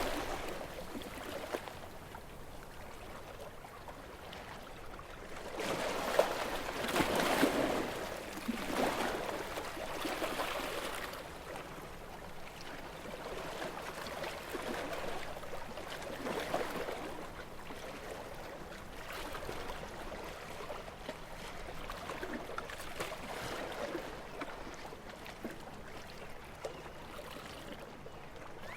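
Calm sea with gentle waves washing in and drawing back in slow swells of hiss. The biggest wave comes about seven seconds in, and the later ones are softer.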